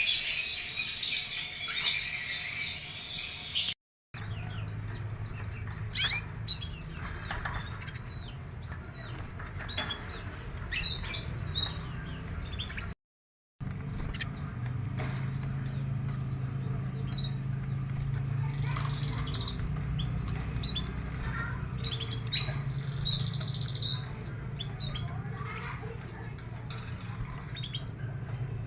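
Pet canaries chirping and trilling in quick, scattered bursts over a steady low hum. The sound cuts out completely twice for a moment.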